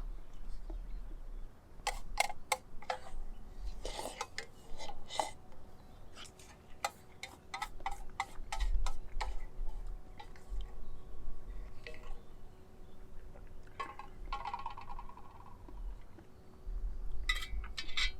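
Irregular clinks and clicks of small hard objects being handled, coming in short clusters of taps.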